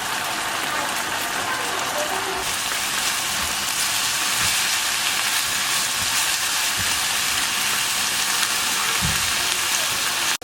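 Food sizzling in a frying pan: a steady crackling hiss that grows louder about two seconds in.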